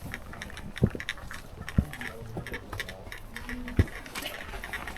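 Three dull thumps, the second about a second after the first and the third about two seconds later, over faint light ticking and rustling.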